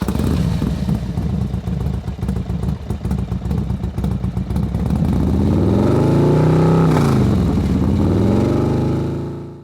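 Motorcycle engine running, choppy and uneven for the first few seconds, then a smooth steady note from about halfway, with the pitch dipping and rising again around seven seconds. It fades out at the end.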